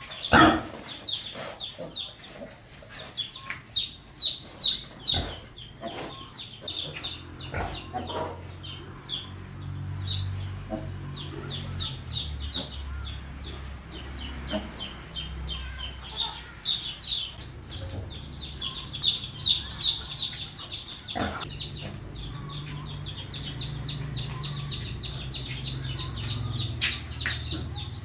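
Chickens clucking, with many short high peeps throughout and a few sharp knocks, the loudest near the start.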